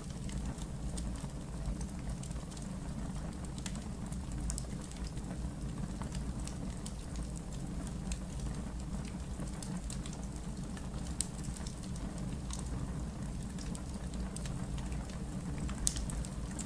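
Wood fire burning in a fireplace: a steady low rumble of flames with scattered sharp crackles and pops from the logs, two louder pops about eleven seconds and sixteen seconds in.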